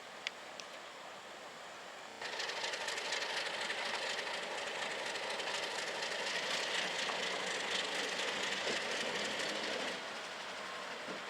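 Train rolling past with steady wheel-on-rail noise. It comes in abruptly about two seconds in and drops back somewhat near the end.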